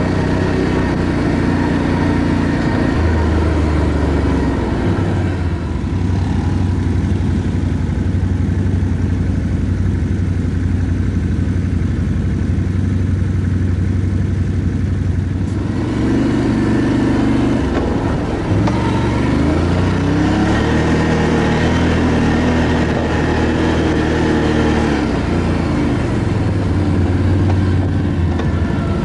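ATV engine running under way, its pitch shifting several times as the throttle is opened and eased.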